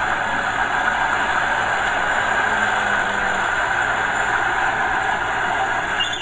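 Diesel engine of earthmoving machinery, a small bulldozer working with a dump truck, running steadily.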